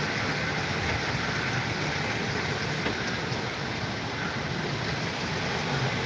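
Steady rushing of hurricane-force storm wind, an even noise without breaks.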